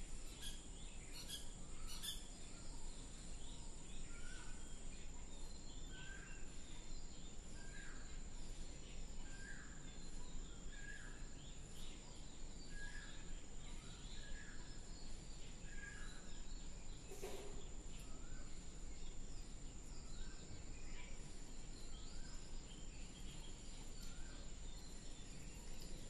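Outdoor ambience: a bird repeats a short call about once every second and a half, fading later on, over a steady high hiss. One sharp knock comes about two-thirds of the way through.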